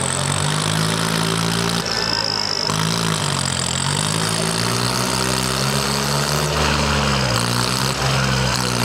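Swaraj 855 tractor's diesel engine running hard and being revved up and down again and again, its pitch rising and falling.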